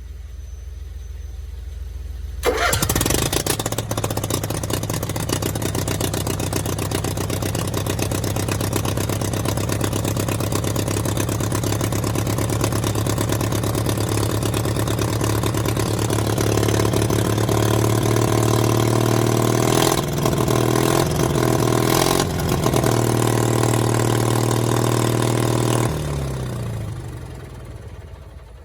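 Onan generator engine catching about two and a half seconds in and running loud and steady, its exhaust unsilenced through a broken muffler. It dips briefly twice, then is shut off near the end and spins down with a falling note.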